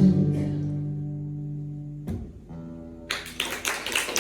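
Closing guitar chord strummed and left to ring out, with a second, softer strum about two seconds in. Audience applause breaks out about three seconds in.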